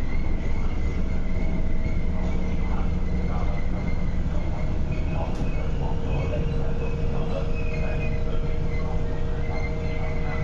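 Interior of an MTR East Rail Line MLR electric train car: a steady low rumble and hum from the train's running equipment, with a steady whine that comes up stronger about halfway through.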